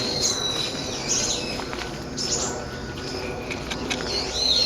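Brown-eared bulbuls making a noisy racket: shrill, high notes that slide up and down, repeated throughout, loudest at the start and again near the end.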